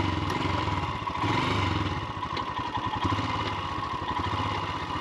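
Royal Enfield Himalayan's single-cylinder engine running at low revs, with a steady, even beat.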